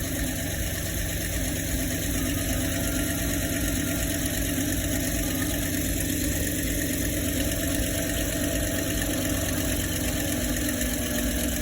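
Ford E-series 5.4-litre V8 idling steadily with all four cylinders of the left (driver's side) bank, 5 to 8, misfiring, which the mechanic blames on an internal fault, most likely that bank's camshaft being out of time.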